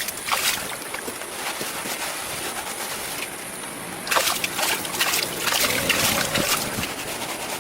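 Water splashing and sloshing, with irregular splashes that grow busier and louder from about four seconds in.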